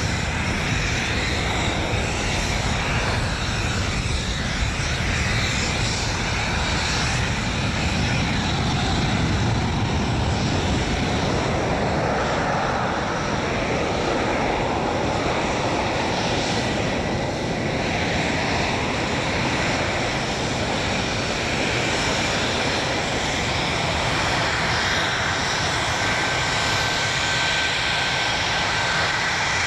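English Electric Lightning F6's twin Rolls-Royce Avon turbojets running, a loud steady jet noise, with a thin high whine coming through near the end.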